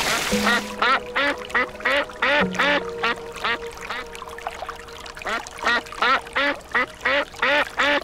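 Ducks quacking over and over, a quick run of short calls about three a second.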